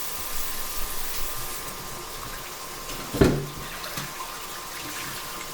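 Kitchen tap running, water splashing into the sink as vegetables are washed, with a single knock about three seconds in.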